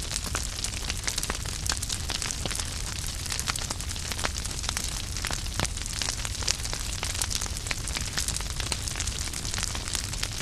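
Logs burning in a fireplace, crackling: a steady hiss with frequent sharp pops and snaps at irregular intervals.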